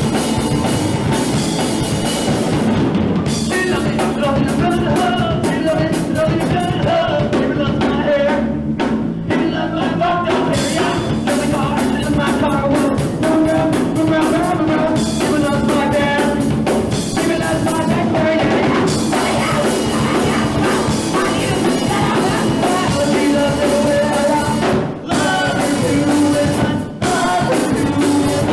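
Live punk rock band playing loud, with a drum kit and a singer over the music; the sound drops out for a moment twice near the end.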